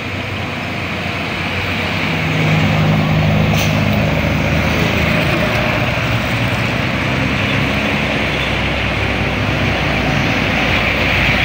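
A heavy road vehicle, a bus or truck, driving past close by with its engine working hard. The engine and road noise swell about two seconds in and stay loud and steady.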